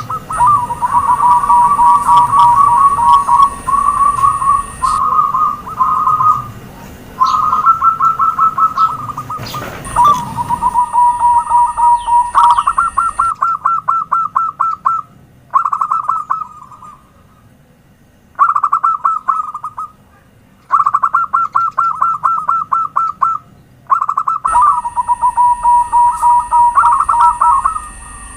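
Zebra doves (perkutut) cooing: phrases of rapid staccato notes at a steady pitch, repeated one after another with short pauses between them.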